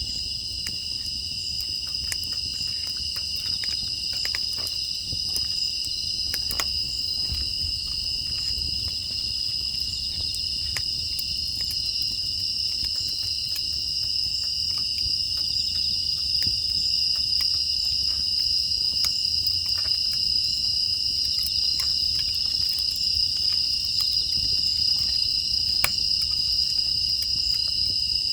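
A steady chorus of crickets and other insects trilling in two high bands, with scattered faint crackles and pops from a wood fire burning in a traditional furnace.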